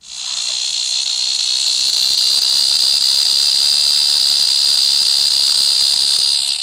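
Cicada singing: a loud, steady, high-pitched buzzing drone that swells up over the first second and cuts off sharply at the end.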